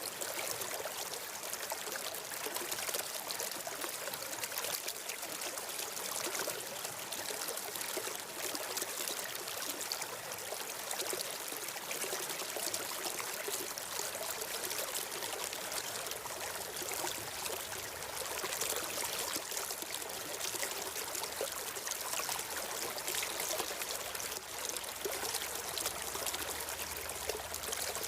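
Water of a stream flowing steadily, an even rushing and trickling with no breaks.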